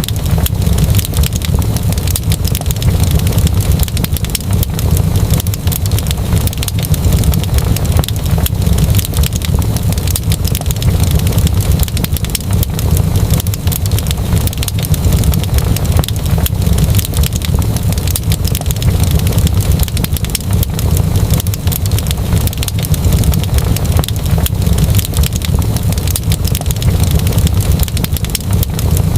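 Wood fire burning in a fireplace: a steady low rumble with dense, continuous crackling and popping.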